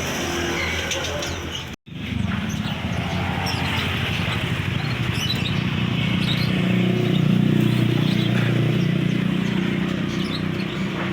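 A passing vehicle engine running over steady road traffic, swelling loudest around the middle, with songbirds chirping in short high notes above it. A brief drop to silence about two seconds in.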